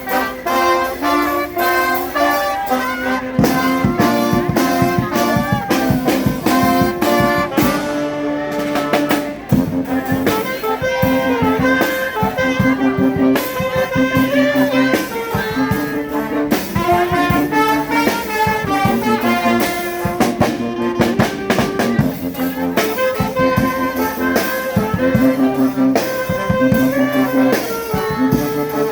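Charanga street brass band playing a lively tune: trumpets, saxophones and trombones over a steady drum beat.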